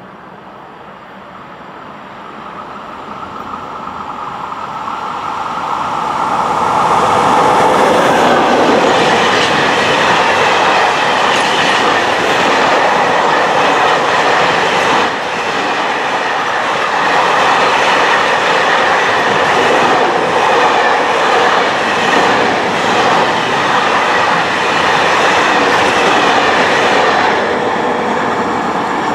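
A train passing along the railway line: the rush of wheels on rails builds steadily over about seven seconds, then holds loud and steady, with clicks of wheels over the rail joints.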